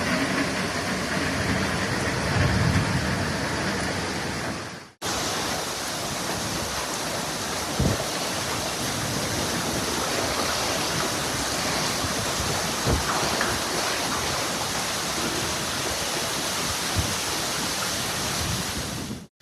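Steady rush of floodwater and heavy rain. It cuts off briefly about five seconds in and resumes, with a few brief knocks later on.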